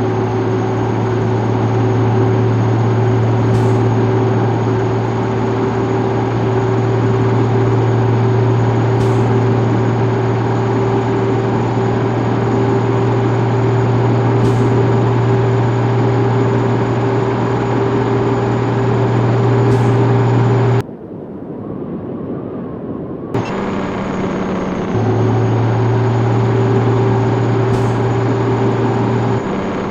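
Scania 110 truck's six-cylinder diesel engine running steadily under way. About two-thirds of the way through the sound cuts out sharply for a couple of seconds, then returns at a changed pitch before settling back to its steady note.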